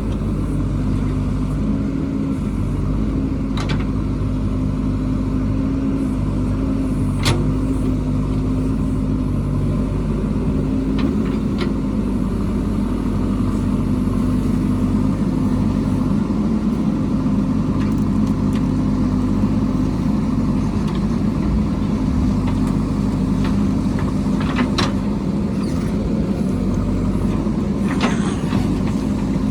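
Diesel engine of a heavy construction machine running steadily under load, with a few sharp metallic knocks scattered through it.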